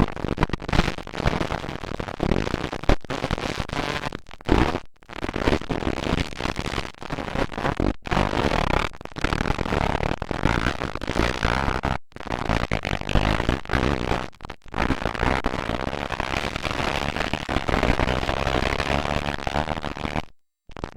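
Motocross dirt bike engines racing, loud and dense with brief dips, cut off suddenly near the end.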